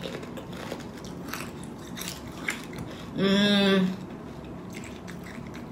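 Crunchy chewing of spicy tortilla chips with the mouth closed, with a short hummed "mmm" held at one pitch about three seconds in, the loudest sound.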